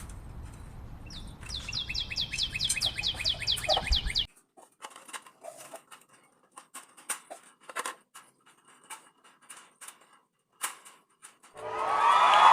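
Canary singing: a fast trill of short, falling whistled notes, about five a second, for some three seconds, then scattered short chirps and clicks. A loud, dense burst of song and calls starts near the end.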